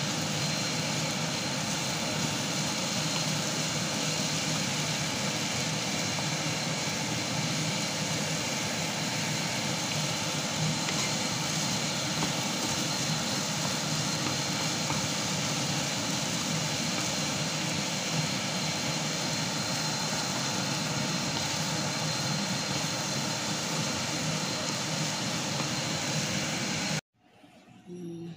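Fan of a countertop convection cooker running steadily while it cooks, a hum with a thin high whine, cutting off suddenly near the end.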